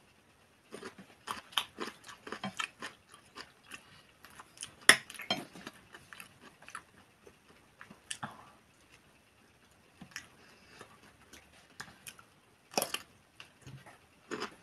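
A person chewing and biting food close to the microphone, here mouthfuls of mashed potato and bread with salo: a run of short wet mouth clicks and smacks, with a louder one about five seconds in and another near the end.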